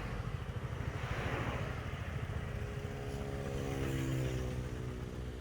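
A motor vehicle's engine running with a fast low pulsing, its note swelling about halfway through and then fading with a slight fall in pitch, as of a vehicle passing on the road.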